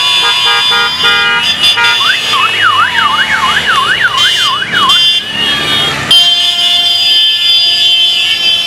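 Electronic siren cycling through patterns: quick on-off beeps, then a fast rising-and-falling yelp about twice a second, then steady held tones.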